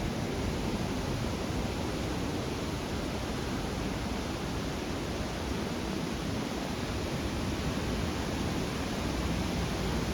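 A steady, even rushing noise with no speech, heaviest in the low range.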